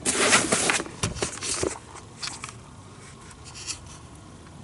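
Rustling and a cluster of light knocks and clicks from shed deer antlers being handled and laid out, loudest in the first two seconds, then only a few faint ticks.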